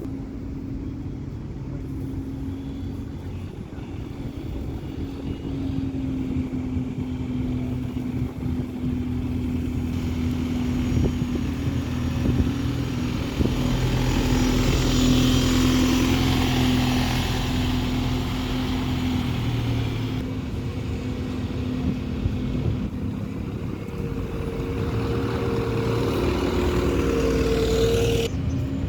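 Bus engines running steadily with a low rumble and hum, swelling louder for several seconds about halfway through, with a higher steady tone coming in near the end.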